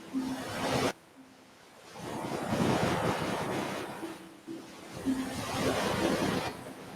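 Ocean surf: waves wash in and draw back in surges. The first cuts off abruptly about a second in; a long swell builds from about two seconds and fades near the end.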